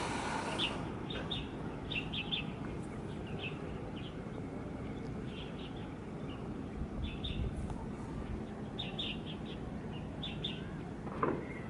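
Small birds chirping, short high calls repeating in little clusters, over a steady low background noise.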